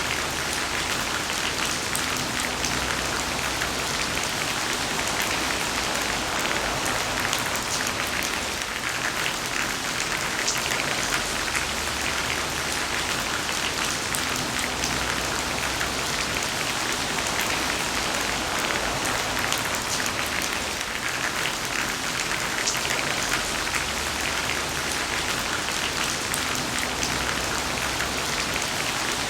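Heavy rain falling steadily: a dense, even hiss of drops with fine patter throughout.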